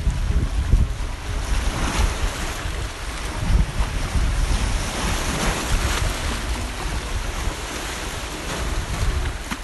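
Sea waves washing, with wind buffeting the microphone in gusts as a deep rumble.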